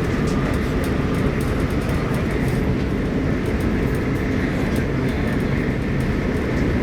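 Arlanda Express electric train running, heard from inside the carriage: a steady low rumble with a faint, even whine.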